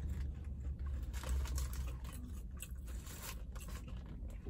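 Close-up chewing of a fried chicken biscuit: crunchy breading and wet mouth clicks, many small crackles in a row. A low steady hum runs underneath.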